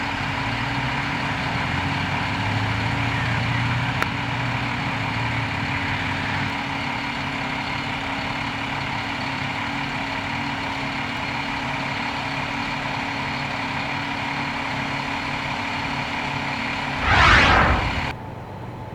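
A large vehicle's engine idling steadily with a constant drone. Near the end comes a loud rush of noise lasting about a second, and then the high part of the engine sound cuts off abruptly.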